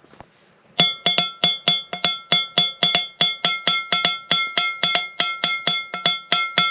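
Fast, even drumming on a ringing metal object, about five or six strikes a second, starting just under a second in. Each strike sets off the same high ringing tones, which hang on between the hits.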